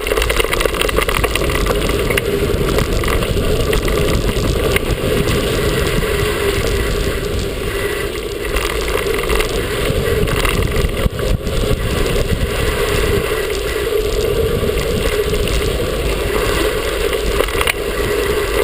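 Mountain bike descending a dirt trail at speed: a continuous rush of tyres crunching over dirt and gravel, with rattles and knocks from the bike over bumps and a deep rumble of wind on the microphone.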